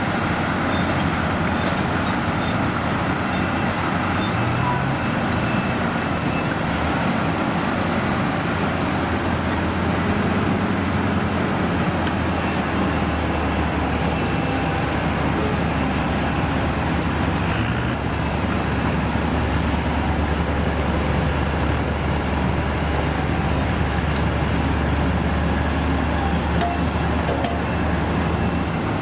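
Diesel engines of heavy vintage trucks or construction machines running steadily, with a deep, even engine hum under a dense mechanical noise.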